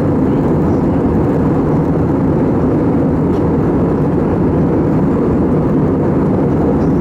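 Steady rumble of an Airbus A320's jet engines and airflow heard from inside the passenger cabin, deep and even with no change in pitch.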